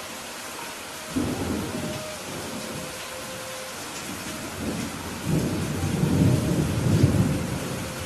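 Steady rain falling with rolling thunder. A rumble sets in about a second in, and a louder, longer roll builds in the second half.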